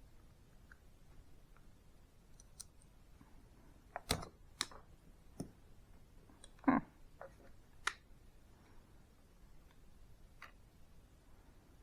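A handful of scattered sharp clicks and knocks from tools and metal parts being handled, the loudest a duller knock about seven seconds in.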